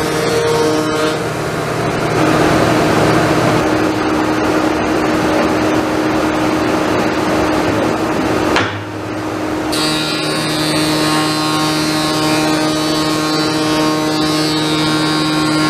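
Woodworking power tools running: a steady motor hum with a noisy cutting sound. It changes abruptly about eight and a half seconds in, dips for about a second, then carries on with a different pitch.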